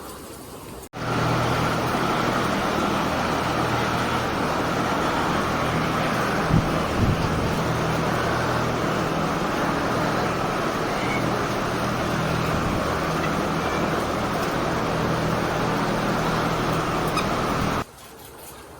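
Steady mechanical running noise with a low hum, starting suddenly about a second in and cutting off suddenly near the end, with a couple of brief knocks partway through.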